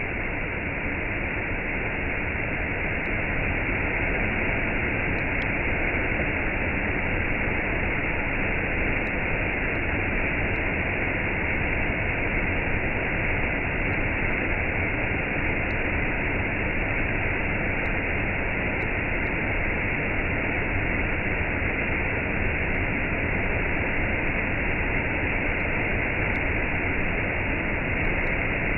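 Waterfall and cascade: a steady rush of falling water, even and unchanging.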